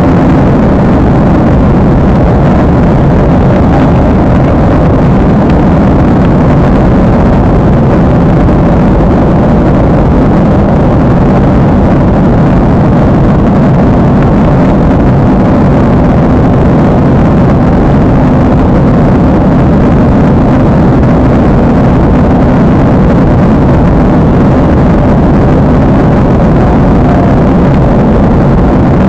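Loud, steady jet airliner cabin noise: engine and airflow noise heard from inside the passenger cabin, unchanging throughout.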